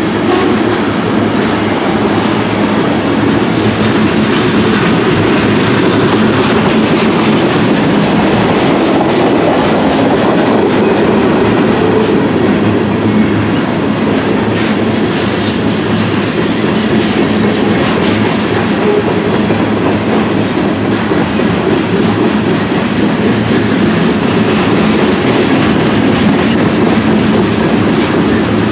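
CSX freight train's cars rolling past on the track, a loud steady rumble with the wheels clacking over the rail joints.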